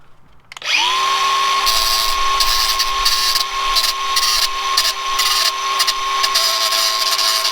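Angle grinder with a cutting disc starts about half a second in, spins up to a steady high whine and cuts through motorcycle drive chain links. Harsh, uneven grinding noise comes and goes over the whine as the disc bites the steel.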